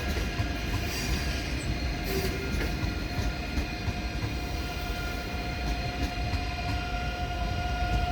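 ICE high-speed train moving slowly through the station: a low rumble with a steady high-pitched whine of several tones that grows a little louder near the end.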